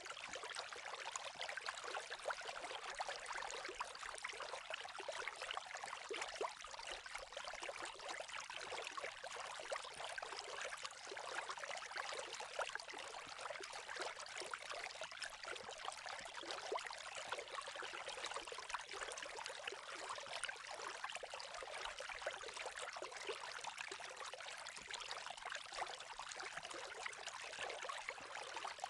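Running water, a steady, even trickling and splashing with no breaks.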